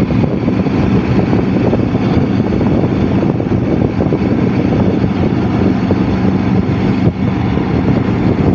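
Motorcycle engine running steadily at cruising speed, a continuous drone with road and wind noise and no change in pace.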